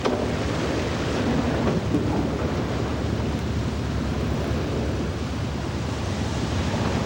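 Steady rush of wind and ocean waves.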